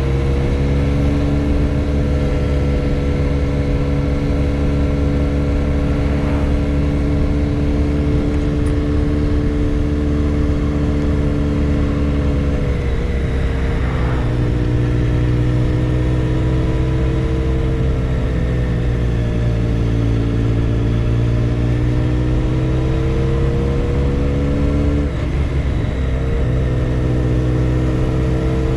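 Motorcycle engine running steadily under way, its note holding for long stretches and broken briefly twice, about halfway through and near the end.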